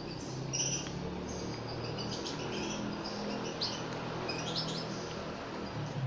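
Canary chicks cheeping during hand-feeding: short clusters of high, quick chirps every second or so.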